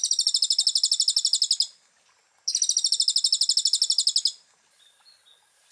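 Sunbird (konin) singing two fast, high trills of evenly repeated notes, about a dozen a second, each lasting under two seconds with a short pause between, then a few faint short notes near the end.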